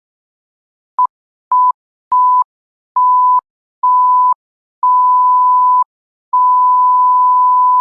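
Electronic beep tone at a single steady pitch, sounded seven times with gaps between. Each beep is longer than the one before, from a short blip about a second in to a long held tone at the end.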